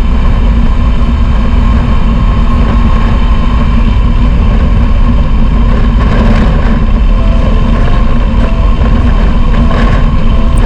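Royal Enfield Himalayan 411's single-cylinder engine running under a ride, with heavy wind rush on the phone microphone. The sound is loud and steady throughout.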